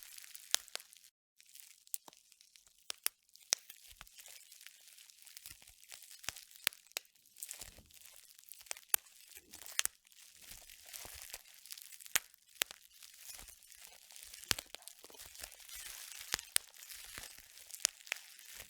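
Bubble wrap being popped by hand: irregular sharp pops, sometimes several close together, over a constant crinkling of the plastic sheet.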